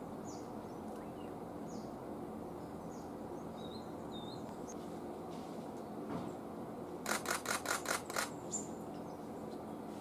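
Faint, short, high falling chirps of small birds over a steady low background hiss. About seven seconds in comes a quick run of about seven sharp clicking notes, about six a second, the loudest sound.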